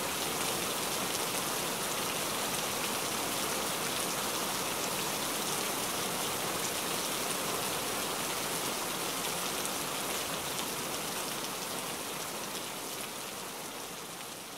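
Heavy rain falling steadily, a dense hiss of countless small drop splashes, fading out over the last few seconds.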